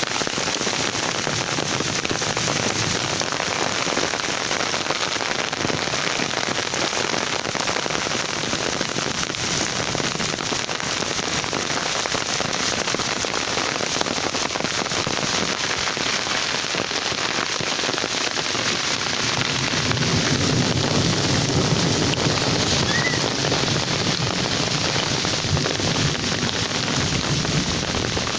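Steady rain falling on open ground and trees, an even hiss. A deeper low rumble swells in about two-thirds of the way through.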